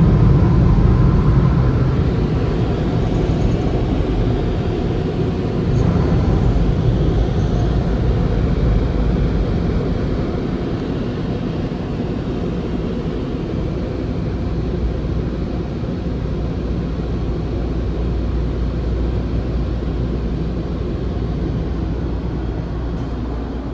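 Automated car wash machinery running with a steady rushing roar, heard from inside the car, slowly easing off a little.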